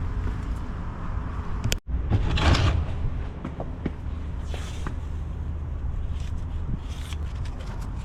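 Sandblasting of brake parts: a compressor-fed blaster gives a steady low hum, broken by short bursts of hissing blast air, the loudest about two seconds in and another near the middle.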